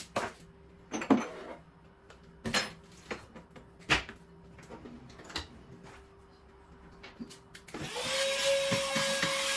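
Pantry packets and containers knocked and set down a few times, then near the end a vacuum cleaner switches on and runs with a steady whir and one held tone.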